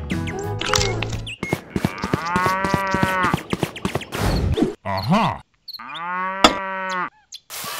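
Cows mooing: a long moo about a second and a half in, a short one around five seconds, and another long moo near the end, with a sharp click during it.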